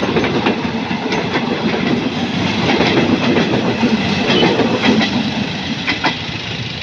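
Express train passenger coaches rolling past close by: a steady rumble with wheels clicking irregularly over the rail joints. It eases a little as the last coach goes by near the end.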